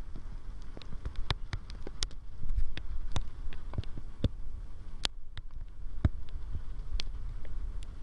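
Raindrops tapping irregularly close to the microphone, a few sharp ticks a second, over a low rumble of wind on the microphone.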